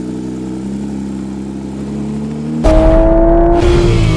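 Porsche 911 GT3 RS flat-six engine running at a steady note, then about two-thirds of the way in it suddenly turns much louder as the car accelerates, its pitch slowly climbing.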